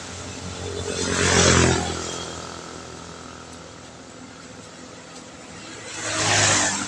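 Two vehicles pass in turn on a wet road, about five seconds apart. Each swells and fades with a hiss of tyres on wet asphalt over a low engine hum. Between them, a steady hiss of light rain and wet road.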